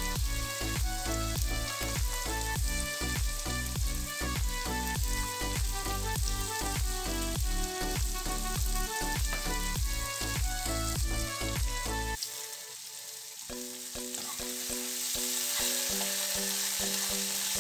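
Background music with a steady beat, and beneath it the hiss of diced vegetables frying in oil in a heavy-based kadhai. About 12 seconds in the bass drops out, and the sizzle grows louder near the end.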